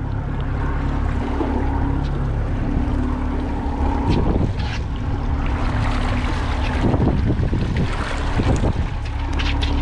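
Boat motor running steadily at trolling speed, under water and wind noise, with a few louder surges about four seconds in and again between seven and nine seconds.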